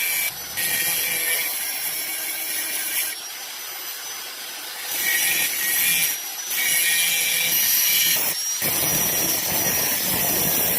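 Motor-driven grinder rubbing down the worn, grooved fingers of a motorcycle clutch housing in several passes with short breaks. It is a steady rasping grind over a thin motor whine. The grooves worn into the basket make the clutch drag and the gears hard to engage, and grinding them flat is meant to cure this.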